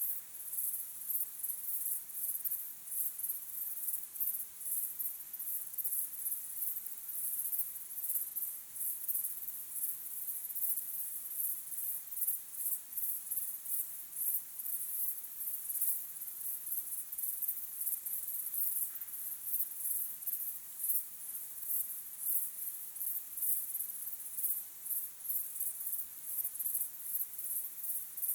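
A chorus of crickets chirping in a dense, fast, high-pitched pulsing trill that holds steady without a break.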